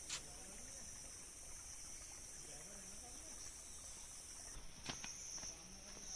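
Steady high-pitched drone of forest insects, with a couple of soft clicks, one just at the start and one about five seconds in.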